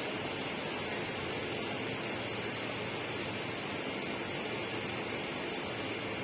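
A steady, even rushing noise with no breaks or changes, brightest in a hissing upper band.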